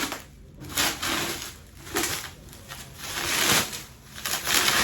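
Crinkling and rustling of shopping-bag packaging being handled as an item is taken out, in several bursts with the longest about three seconds in.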